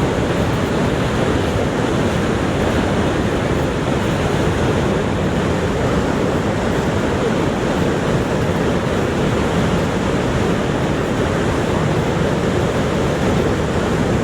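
Niagara Falls thundering: a steady, deep rush of falling water that does not change.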